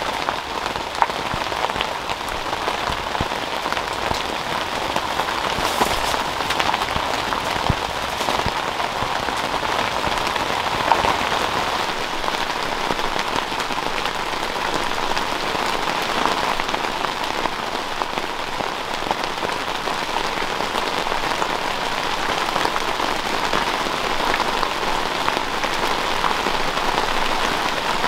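Steady rain pattering on the clear urethane roof windows of a Ben Nevis Observer camping shelter, heard from inside: a dense, even patter of drops with a few louder single drop hits.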